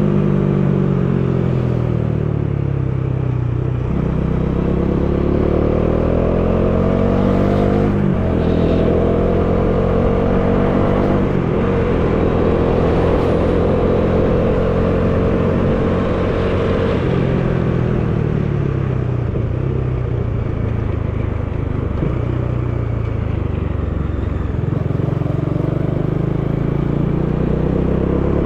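Bajaj Dominar 400's single-cylinder engine under way on a ride, with wind noise: it slows, then pulls up through the gears with two shifts about 8 and 11 seconds in, holds a steady speed, winds down and picks up again near the end.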